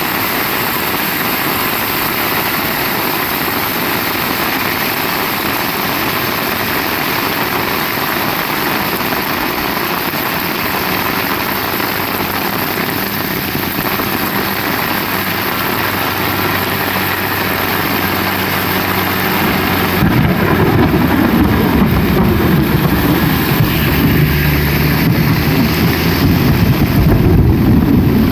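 Heavy rain falling steadily. A faint low hum comes in partway through, and about two-thirds of the way in a much louder low rumble builds up under the rain.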